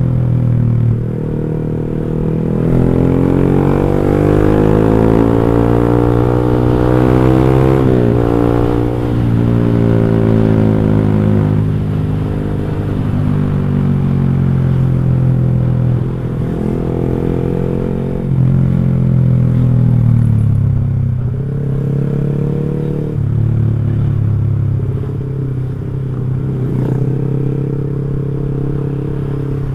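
Motorcycle with an X1 Speed Pro One aftermarket racing exhaust, ridden on the road. The exhaust note climbs in pitch as the bike accelerates for several seconds, then drops and rises again several times as the throttle and gears change.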